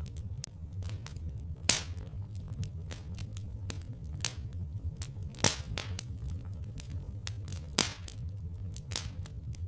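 Wood fire crackling: irregular sharp snaps and pops, a few louder ones, over a steady low rumble.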